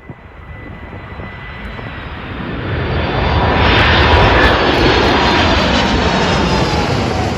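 F-35B Lightning II jet passing by, its F135 turbofan engine making a broad jet noise that builds to its loudest about four seconds in and then eases slightly. Faint whining tones slide slowly down in pitch as it goes past.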